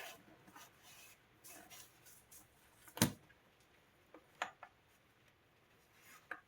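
Scattered small handling noises, light clicks and rustles, with one sharp click or knock about three seconds in and a few lighter ticks after it, as tools and parts are handled during an electronics repair.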